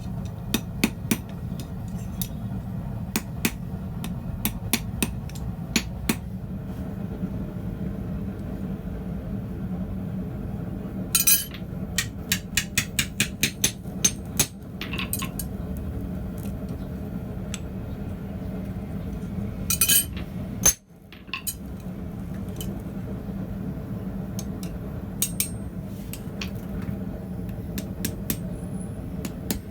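Hand hammer striking hot steel on an anvil in quick runs of ringing blows, several a second, with pauses between runs and a few lighter taps near the end, over a steady low rumble.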